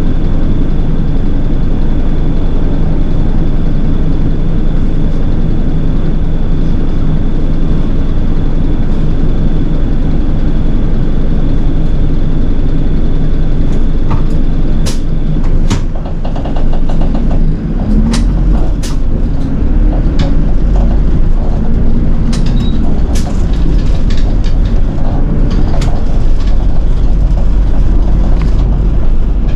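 City bus running along the road, heard from inside the cabin: steady engine and road noise, with irregular rattling clicks from about halfway and a deeper, louder rumble in the last part.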